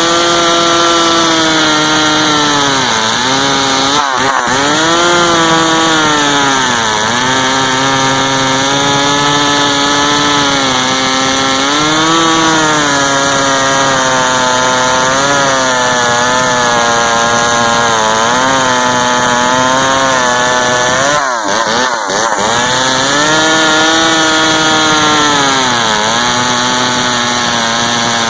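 McCulloch Pro Mac Super 10-10 two-stroke chainsaw running at full throttle through wood, its engine note sagging as the chain bites and climbing back several times.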